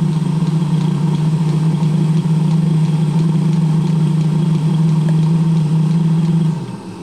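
Eberspacher D1L diesel heater burning, a loud steady low hum from its lit burner and fans. The hum drops away about six and a half seconds in.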